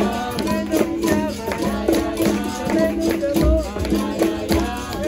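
Capoeira roda music: a berimbau alternates between its two low notes with the rattle of a caxixi, over pandeiro strokes, while voices sing a bending call-and-response melody.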